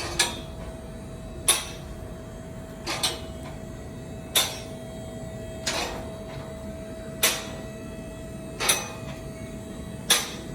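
A shop's vehicle lift raising the car: a steady motor hum, with the lift's safety latches clanking about every second and a half as it climbs.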